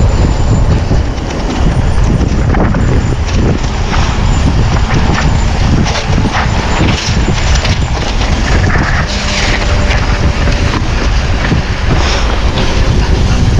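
Mountain bike riding over a rocky technical trail: a loud continuous rushing rumble, with the bike rattling and knocking over the rocks.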